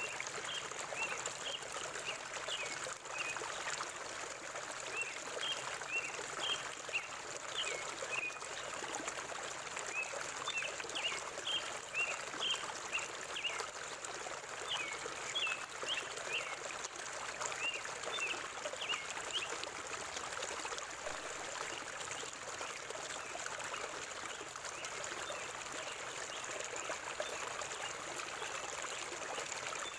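River water flowing steadily over stones, with a bird giving many short high chirps for roughly the first twenty seconds, then falling silent.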